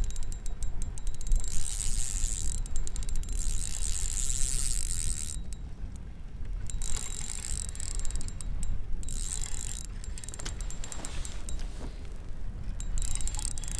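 Fishing reel being cranked fast to bring in a hooked smallmouth bass, clicking rapidly in several bursts with short pauses. Wind rumbles low on the microphone.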